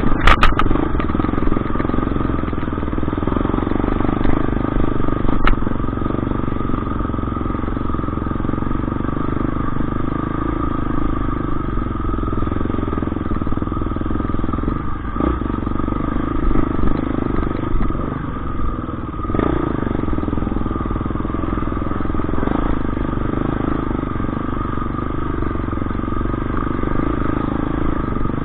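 Motorcycle engine running steadily, with a low rumble and a couple of brief clicks.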